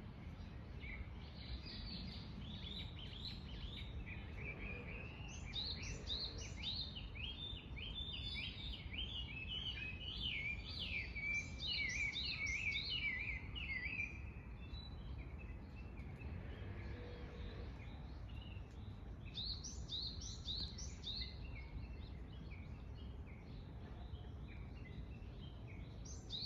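Small songbirds singing, with quick strings of high chirping notes that are busiest through the middle and come again in a shorter burst later, over a steady low background rumble.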